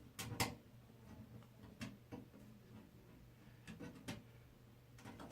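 A few faint, short clicks and taps, the sharpest pair a fraction of a second in and others scattered later, over a low steady hum.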